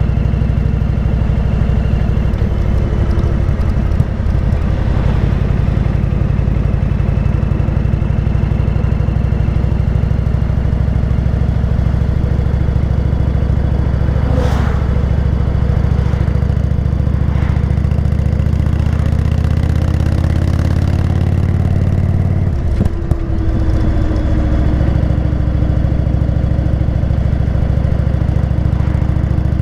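Motorcycle engine running steadily under way. Near the end the engine note breaks briefly, as at a gear change, then picks up and climbs.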